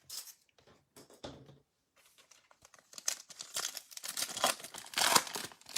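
Foil wrapper of a Topps Chrome baseball card pack being torn open and crinkled by hand. A few light crackles come first, then a dense stretch of crinkling and tearing in the second half.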